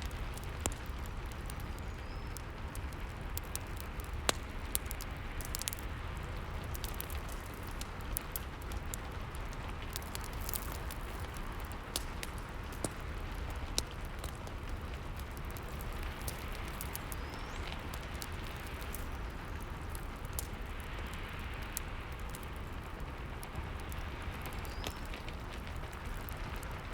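Rain and fireplace ambience: a steady hiss of rain over a low rumble, with frequent sharp, irregular crackles and pops from a wood fire.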